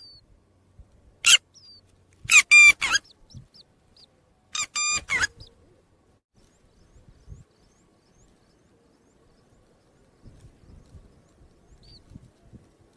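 A bird calling loudly: single calls at the start and about a second in, then two bursts of several quick calls, ending with soft rustling and a few faint high chick peeps near the end.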